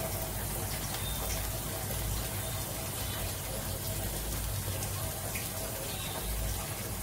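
Paneer paratha sizzling steadily in ghee on a hot tawa as it toasts, a constant even hiss.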